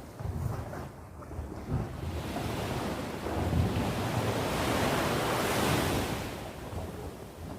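Sea waves breaking on the shore: the surf swells to its loudest about halfway through and then washes back and fades, with wind rumbling on the microphone.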